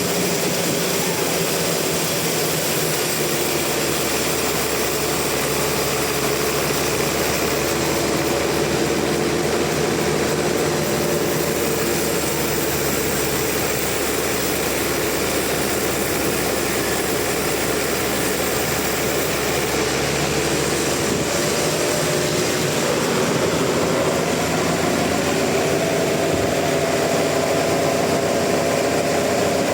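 Sawmill saw running steadily, a continuous machine sound with a few tones that drift slowly in pitch.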